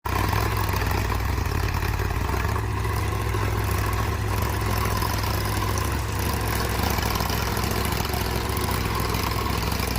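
Four-wheel-drive tractor's diesel engine running steadily at constant revs under load while ploughing.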